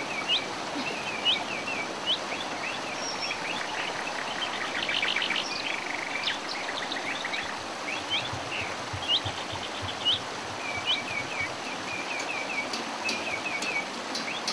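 Several birds chirping and calling over and over, short rising and falling notes with a brief fast trill partway through, over a steady outdoor hiss. A run of faint sharp ticks comes in near the end.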